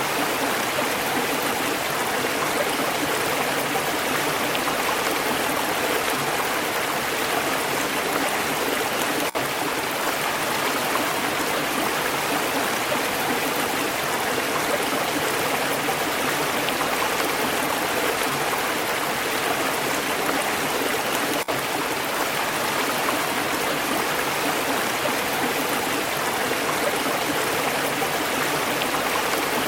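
Flowing stream: a steady, even rush and gurgle of running water over stones, broken only by two split-second dips.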